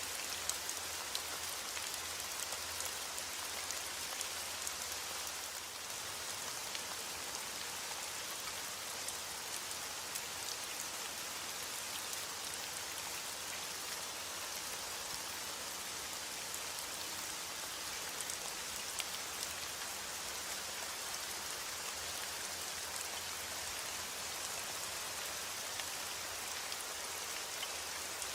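Steady heavy rain falling and pattering on a surface, with scattered sharper drop impacts throughout.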